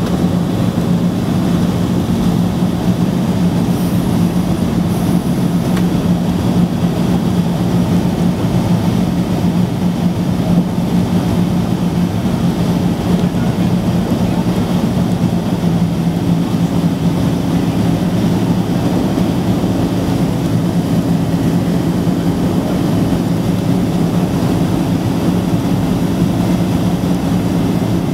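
Steady jet engine and airflow noise heard inside the cabin of a Boeing 767-300ER airliner, with a constant low hum. A second, slightly higher hum joins about halfway through.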